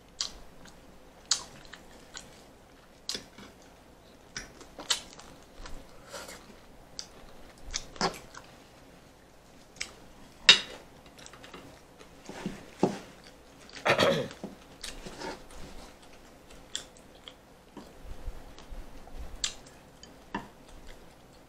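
Close-up eating sounds of two people eating chicken thighs: irregular chewing, biting and mouth smacks with sharp clicks, the loudest about ten and fourteen seconds in.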